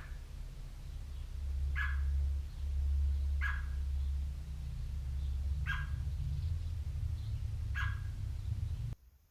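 An animal's short call repeated about every two seconds, five times, over a steady low rumble that cuts off near the end.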